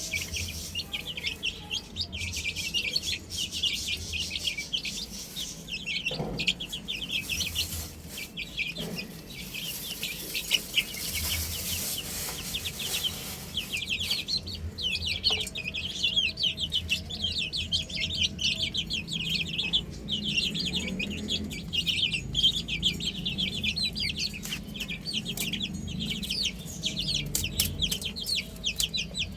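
Domestic chicks peeping continuously: a dense stream of many short, high chirps, several a second, with no let-up.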